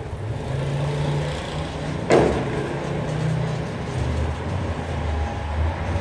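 A vehicle engine running steadily, its pitch dropping about four seconds in, with a single sharp knock about two seconds in.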